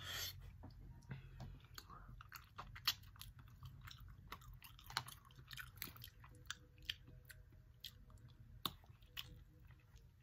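Faint chewing with many small scattered clicks and cracks as snow crab legs are picked apart by hand.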